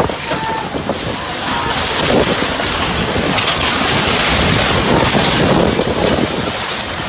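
Strong storm wind gusting, heard as a loud, rushing noise that swells and eases, with wind buffeting the microphone.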